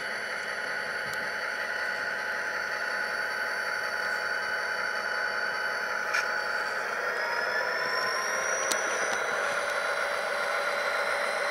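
A Tsunami sound decoder in a model SD40-2M diesel locomotive playing its diesel engine sound through the model's small speaker: a steady running note with a whine over it. Partway through, about seven seconds in, the whine rises in pitch.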